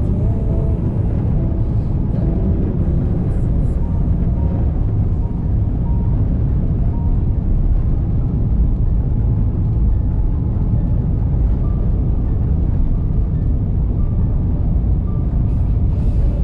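Steady low rumble of a car driving, road and tyre noise, with faint music over it.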